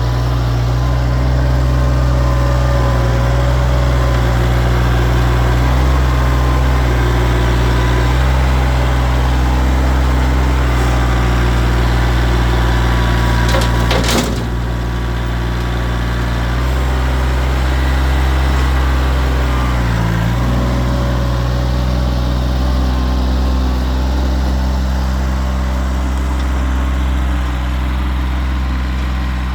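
Kioti tractor's diesel engine running steadily while excavating, its pitch shifting a little as the load changes. A single sharp crack sounds about halfway through.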